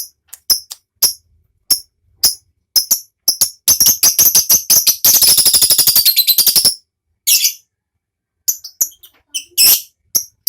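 Lovebird calling with sharp, high chirps, breaking about a third of the way in into a rapid chattering trill (the 'ngekek') that runs for about three seconds before it goes back to single chirps.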